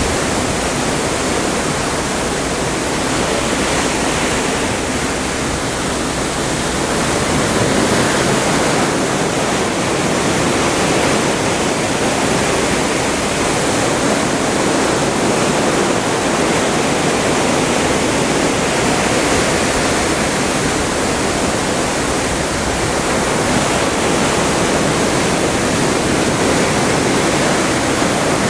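Atlantic seawater rushing past a moving ship's hull: a steady wash with gentle swells in level.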